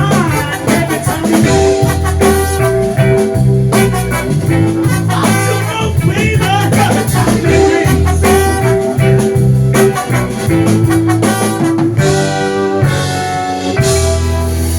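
Live band playing an instrumental passage of a slow song, with guitar to the fore over bass and drums. The band settles onto a held low chord near the end.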